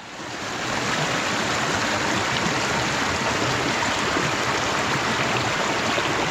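Stream water rushing, a steady rush that swells over the first second and then holds.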